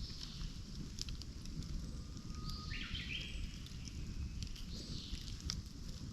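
Campfire burning with scattered sharp crackles and pops over a low steady rumble. A bird calls in the background about halfway through and again near the end.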